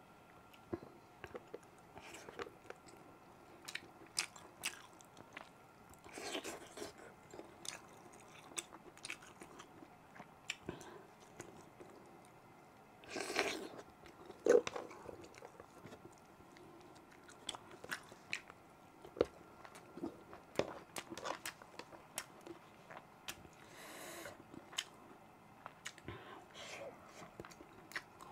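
Close-miked chewing of tender beef and rice: soft, wet mouth clicks and smacks scattered throughout. A few short, louder breath-like rushes come in about a third of the way in, near the middle and late on.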